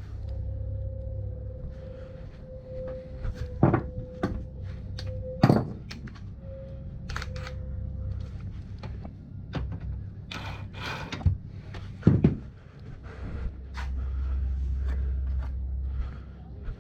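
Metal hand tools clinking and knocking while undoing fittings on an ATV wheel hub, with several sharp knocks spread through, over a steady low hum.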